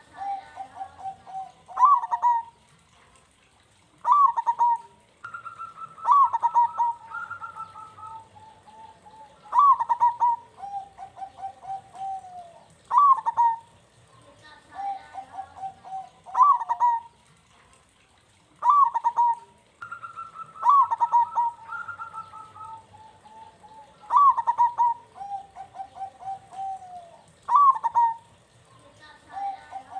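Zebra dove (perkutut) song: each phrase opens with sharp high notes and runs into a fast string of short staccato coos. The phrases come over and over in a steady cycle that repeats about every nine seconds, as a bait song meant to set other perkutut singing.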